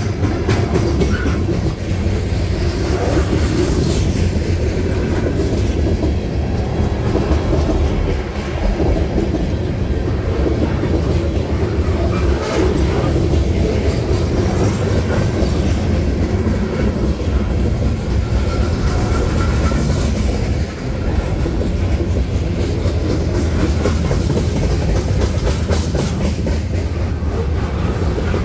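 Manifest freight train's centerbeam lumber flatcars rolling steadily past, a continuous loud rumble with the wheels clicking over rail joints.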